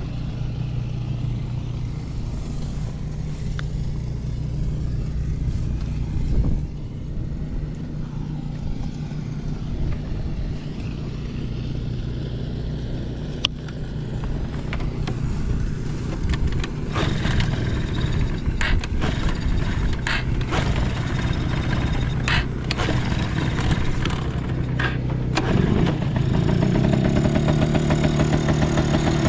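A Yamaha Passol moped's two-stroke engine catches near the end, rising in pitch, then settles into a steady idle. A run of sharp clicks and knocks comes just before, over a steady low drone.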